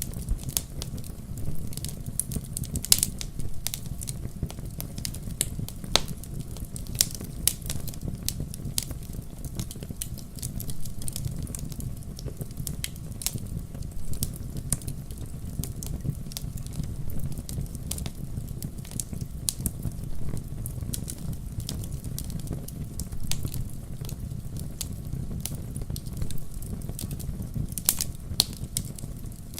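Wood fire burning in a fireplace: logs crackling and popping in irregular sharp snaps over a steady low rumble of the flames, with a few louder pops about three seconds in, at six seconds and near the end.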